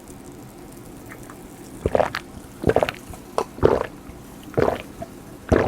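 A person gulping a drink close to the microphone, loud swallows about once a second that begin about two seconds in.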